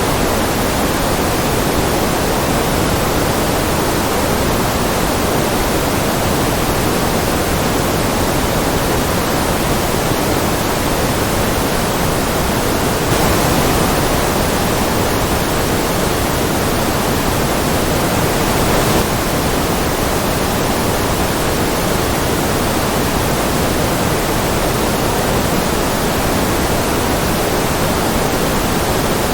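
Steady, unbroken white noise, an even hiss weighted a little toward the lower pitches.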